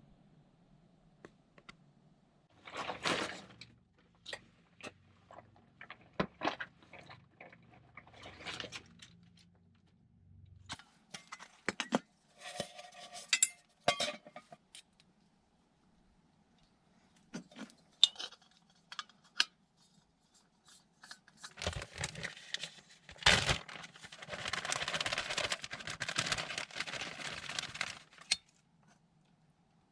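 Clinks and clatter of metal cookware and utensils being handled while a camp meal is set up to heat. Near the end there are a few seconds of steady rushing noise.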